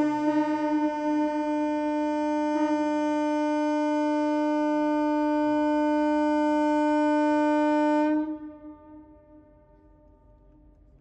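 Ship's whistle sounding one long steady blast, cutting off about eight seconds in and echoing away.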